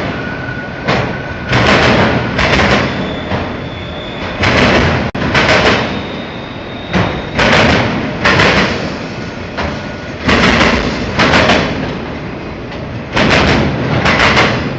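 Mixed freight train rolling past close by, a continuous rumble broken by loud surges of wheel noise, mostly in pairs, about every three seconds as the car trucks cross the rail joints.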